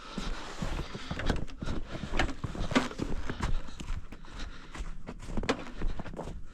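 Footsteps through snow: a run of uneven steps, several a second.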